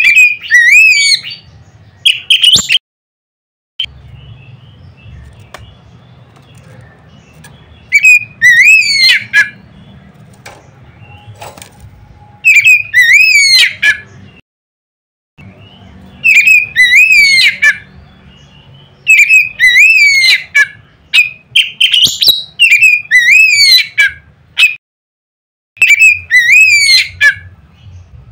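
Oriental magpie-robin (kacer) singing loud phrases of rapid, rising-and-falling whistled notes, each phrase lasting one to two seconds and repeated after short pauses. The recording drops to dead silence briefly a few times where it is spliced.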